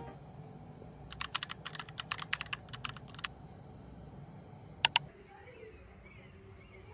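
A quick run of about a dozen light, sharp clicks lasting about two seconds, then two louder clicks in quick succession about five seconds in, over a faint low hum.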